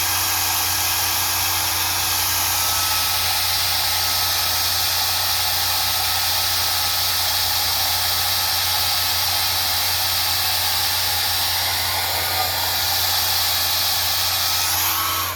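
Hand-held hair dryer running steadily at an even pitch, switched off suddenly near the end.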